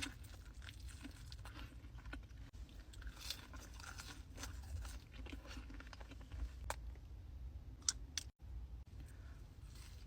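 Close-miked eating: repeated crunching bites and chewing of crisp food, with scattered sharp crackles and mouth sounds.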